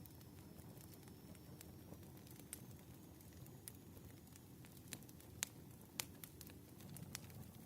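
Firewood burning, crackling faintly with scattered sharp pops and snaps at irregular intervals over a low rumble; the two loudest pops come a little past halfway.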